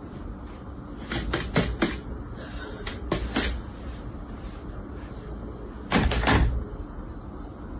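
Sharp knocks and clatters in three bursts, about a second in, around three seconds in and near six seconds in, over a steady low hum.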